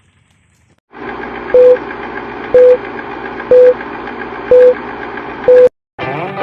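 Five short, loud electronic beeps at a steady pitch, about one a second, over a dense steady background. It cuts off abruptly, and music starts just before the end.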